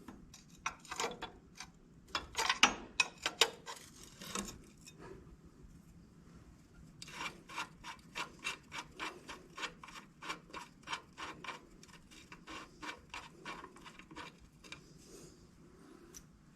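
Metal rubbing and scraping on the Ford 545A backhoe's steering column as the steering shaft is worked loose. It starts as irregular scrapes and knocks, then about halfway in becomes a steady run of back-and-forth rubbing strokes, roughly four a second, for several seconds.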